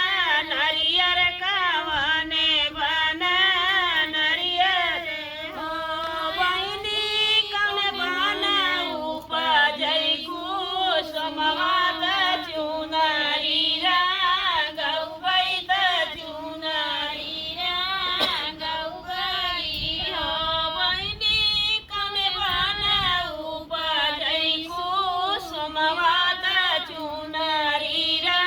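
A female voice singing a Chhath Puja devotional folk song in long, wavering held lines with vibrato.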